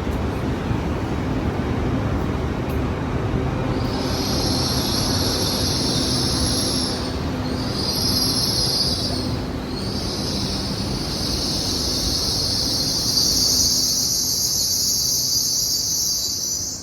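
Train moving through a station platform with a steady low rumble, and from about four seconds in a loud, high-pitched squeal of train wheels that breaks off briefly twice before carrying on.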